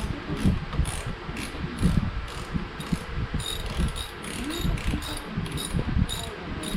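Regular mechanical clicking, two to three clicks a second, like a ratchet being worked, with irregular low knocks of handling underneath.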